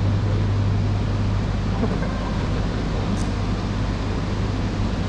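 Steady low hum over a constant rush of background noise: ambience on a shinkansen platform beside the E3-series train. A faint tick about three seconds in.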